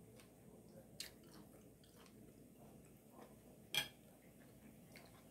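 Faint close-up chewing of a mouthful of steak fajita nachos, with two sharp clicks: a small one about a second in and a louder one near the end, as a metal fork is set down on the plate.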